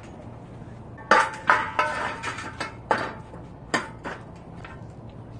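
Steel parts being handled and set in place, clanking against each other. About eight sharp metallic knocks, each with a short ring, starting about a second in and ending about four seconds in.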